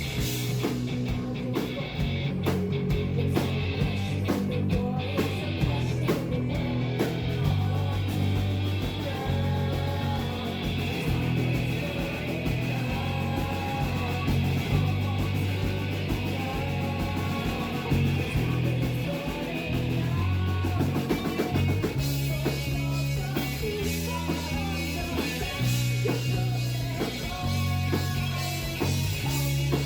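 Live rock band music recorded from the audience, with guitar, bass and drums and a faint lead vocal low in the mix. About two-thirds of the way through, the arrangement changes and the drums get sharper and busier.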